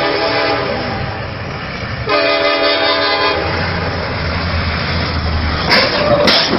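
Train horn sounding in two long blasts, the second starting about two seconds in, over the rumble of a train. Two sharp bangs come near the end.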